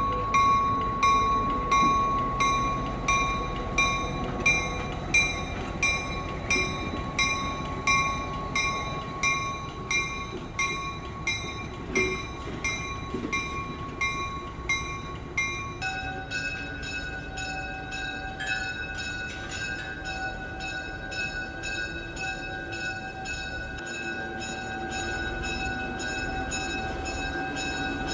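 A railroad bell ringing at about one and a half strokes a second, with train noise under it. About halfway the ringing drops to a lower pitch and the separate strokes fade into a steady ring.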